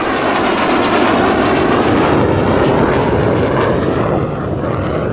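A MiG-17F jet flying past, its loud roar building to a peak about two seconds in and then easing off.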